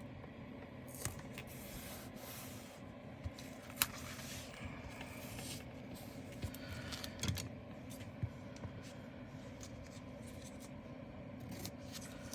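Black tape being pressed and rubbed along the edge of a diamond painting canvas: faint scrapes with scattered small clicks, over a steady low hum.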